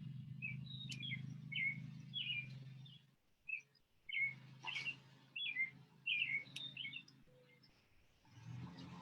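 A small bird chirping: runs of short high chirps, a few a second, with a short pause about three seconds in, over a low steady rumble for much of the time.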